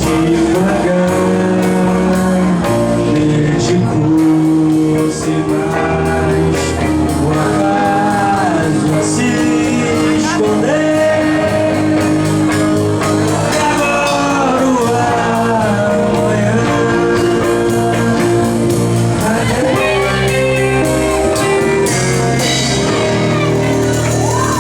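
A band playing a rock song, with a held, gliding melody line over guitar, bass and drums.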